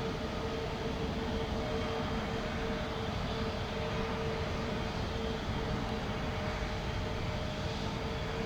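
Jet airliner engines running steadily, an even rushing hum with a steady low whine held throughout.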